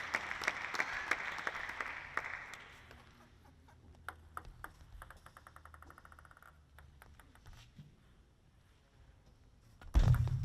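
Crowd applause in the hall dying away over the first few seconds. Then it goes quiet with scattered light ticks, including a table tennis ball's quick run of bounces around the middle. Loud low thumps start near the end.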